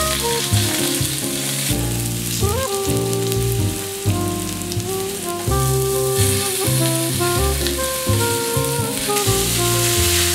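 Sliced burdock (gobo) root sizzling in hot oil in a wok. About six seconds in the sizzle grows louder as thinly sliced pork fries on high heat and is stirred with chopsticks. Background music plays underneath.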